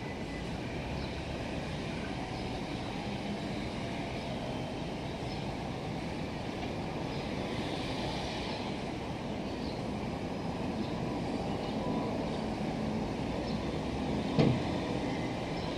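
Meitetsu 6800 series electric train pulling away along the track, its running noise a steady rumble as it recedes. About a second before the end there is one sharp knock.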